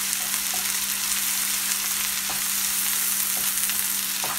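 Onions, ginger-garlic paste and turmeric frying in mustard oil, sizzling steadily while a wooden spatula stirs them in the pan, with a few light scrapes.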